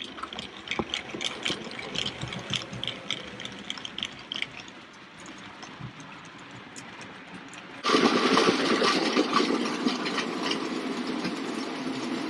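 Model train running on its track, with many small clicks from the wheels over rail joints and a thin high whine. About eight seconds in, a louder, steadier running sound starts abruptly.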